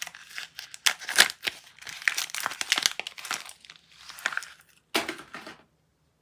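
Soap packaging being unwrapped: a wrapper crinkled and torn in quick, irregular crackles. It cuts off suddenly near the end.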